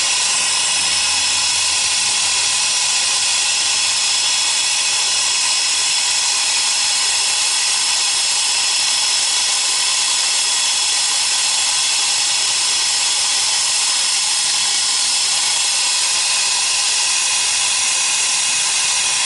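Large brazing torch burning with a steady hiss at a medium-hot flame, heating a refrigeration line joint before brazing.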